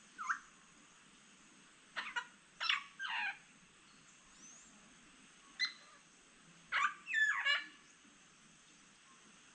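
Parrots calling back and forth: short, harsh squawks, many falling in pitch, in four loose groups of one to four calls with pauses between. A faint, steady high hum runs underneath.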